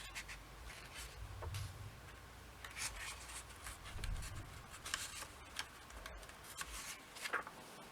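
Pages of an old comic book being turned and handled: several soft, short paper rustles and swishes.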